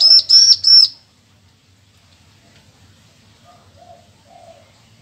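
Bar-winged prinia (ciblek) singing: three loud, quick, high ringing notes in the first second, then only faint low calls.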